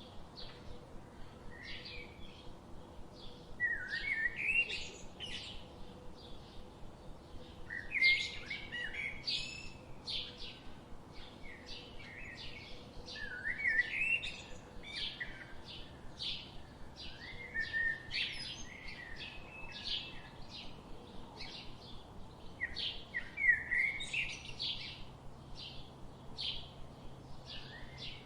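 Several forest birds singing and calling together: a steady run of short, high chirps, with a louder warbling phrase breaking in every few seconds.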